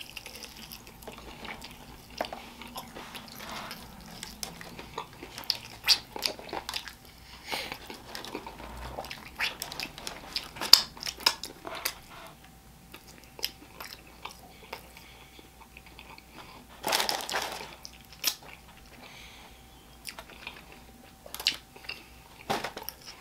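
Close-up chewing and biting of a sauced Korean fried chicken wing: scattered crunches and wet mouth smacks as the meat is gnawed off the bone, with one brief louder burst about two-thirds of the way through.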